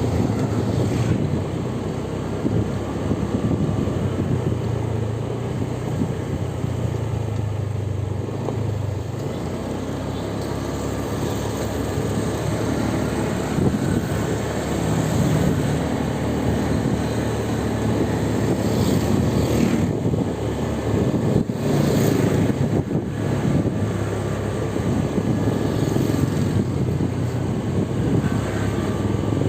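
Motor vehicle driving on the road: a steady low engine and road rumble, with a few brief knocks about twenty seconds in.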